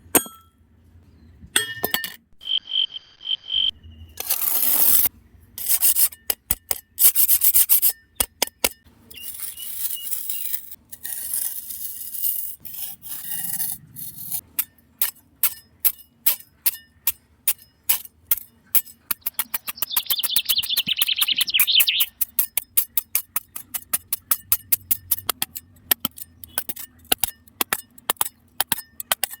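Small-parts handcraft noises: sharp clicks, scraping and rubbing of small hard pieces. They turn into a fast run of clicks, about three or four a second, in the second half, with a brief high squeak about two thirds of the way through.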